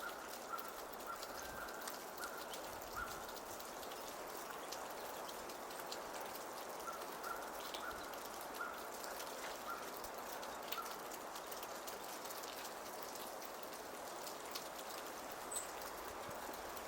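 Steady patter of falling water drops, with many small sharp drips scattered through it. A short high note repeats about twice a second at the start and again midway.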